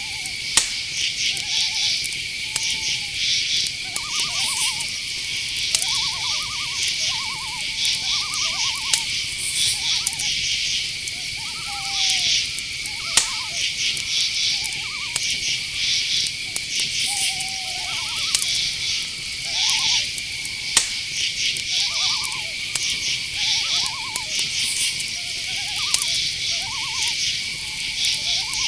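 Night forest ambience: crickets chirping in dense pulsed trills over a steady high insect drone, with short hooting calls of owls recurring about once a second. A few sharp clicks stand out, near the start and about halfway through.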